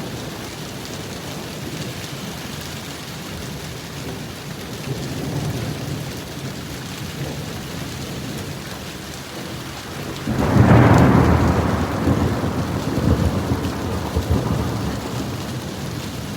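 Steady rain, with a loud peal of thunder breaking about ten seconds in and rumbling on for several seconds as it fades.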